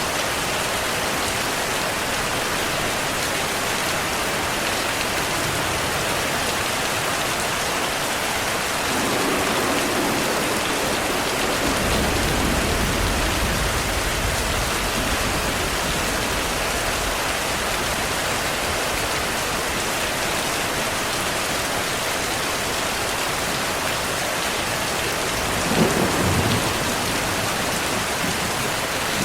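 Steady heavy rain with rolling thunder: a low rumble builds about nine seconds in and carries on for several seconds, and a sharper crack of thunder with a short rumble comes near the end.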